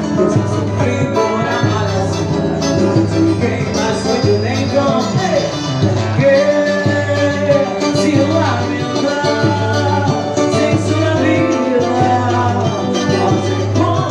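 A small band playing Latin American music, full and steady, with a steady bass line.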